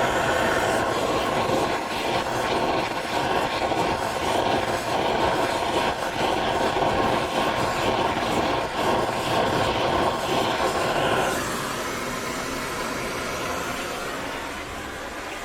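Gas torch flame hissing steadily while heating steel parts for case hardening. About eleven seconds in the louder hiss drops away, leaving a quieter hiss.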